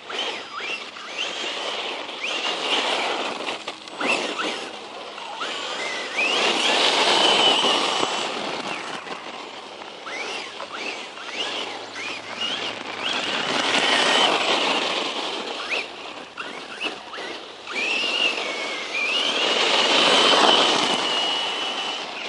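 Brushless electric motor of a 1/10 scale Circuit Thrash RC truck whining as the truck drives at speed, its pitch gliding up on each burst of throttle and then holding. Loud rushing swells come three times, about 7, 14 and 20 seconds in, as the truck runs hard.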